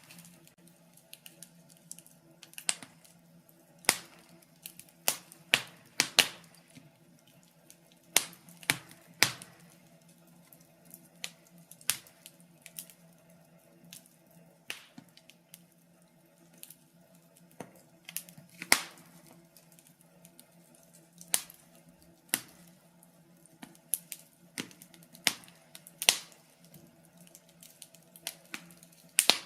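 Wood fire in a fireplace crackling, with irregular sharp pops and snaps, a few of them loud, over a faint steady hum.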